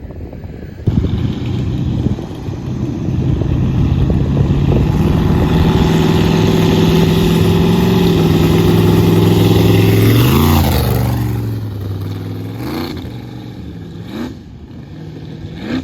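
Vehicle engine revving hard. It comes in sharply about a second in, climbs and is held at high revs for several seconds, then drops away, and is blipped up briefly three more times near the end.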